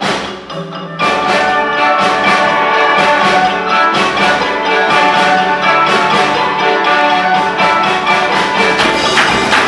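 Instrumental ensemble music: a few separate struck notes ring out, then about a second in the full ensemble comes in louder, with fast, rhythmic struck notes over held chords.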